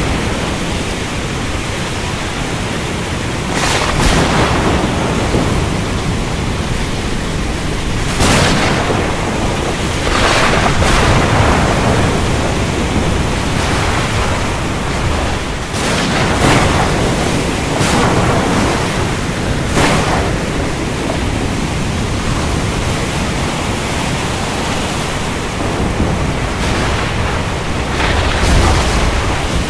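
Thunderstorm at sea: a steady rush of rain and wind, broken about eight times by short, sudden, louder surges.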